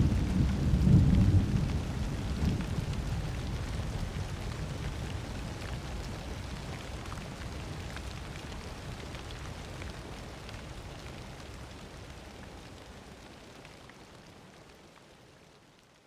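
Thunderstorm: steady rain with a low thunder rumble in the first couple of seconds, the whole sound fading out gradually to silence.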